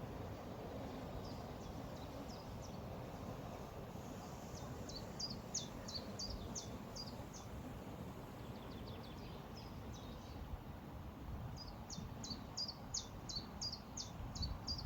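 A river flowing steadily with a low, even rush. Over it a songbird sings two phrases of quick, repeated high notes that sweep downward, about three notes a second. One phrase comes about five seconds in and the other near the end.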